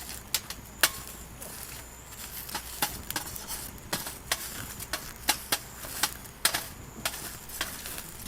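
A run of sharp, irregular clicks and knocks, about one or two a second, over a low steady background.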